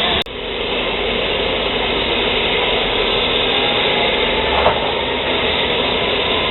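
Train at the station: a steady, loud hissing noise with a low rumble underneath, cut by a brief dropout just after the start.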